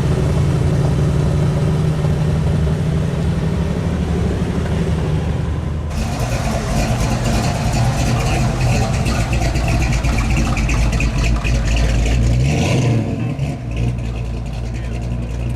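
Hot rod's 572 Chevy big-block crate V8 idling steadily. About six seconds in the sound changes abruptly to a rougher run with more hiss and rattle, and it eases off near the end.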